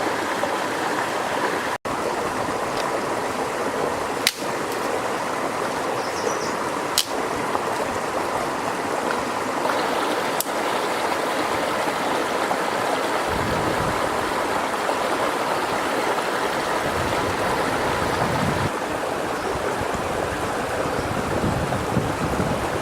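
River water running, a steady rushing stream sound, with a few sharp clicks in the first half and a low rumble joining about halfway through.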